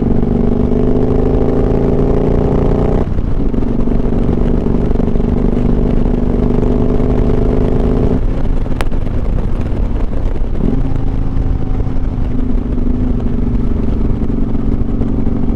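Motorcycle engine running under way, its pitch climbing as it pulls and breaking off at gear changes about 3 s and 8 s in, then settling to a steady cruise.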